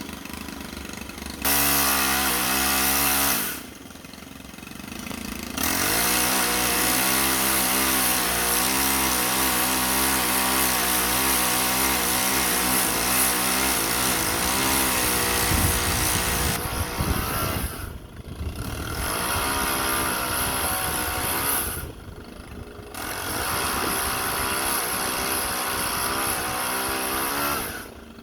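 Chainsaw running at high throttle in four bursts, the longest about ten seconds, easing off briefly between them.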